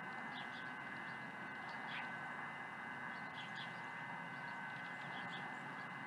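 Small birds chirping faintly now and then, short high calls scattered through, over a steady background hiss with a thin, steady high tone.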